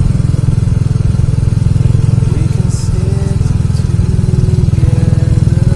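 Motorcycle engine running steadily under way, its rapid firing pulses loud and even.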